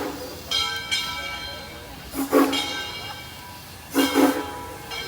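Steam locomotive working slowly: its exhaust beats come in pairs about every second and a half, and the locomotive bell rings between them, each strike fading away.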